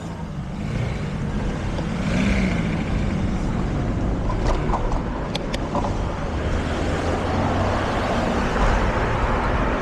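Steady road noise heard from a moving bicycle on a city street: a continuous rumble and hiss, with a few brief clicks about halfway through.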